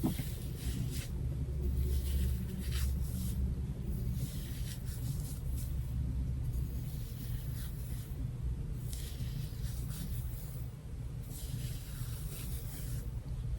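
Hair being brushed: soft, irregular swishing strokes over a steady low hum.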